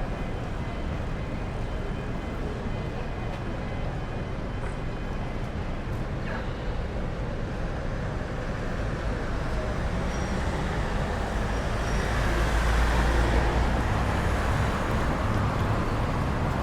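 Road traffic: a steady rumble of passing vehicles that swells about twelve seconds in as a vehicle passes close, then eases a little.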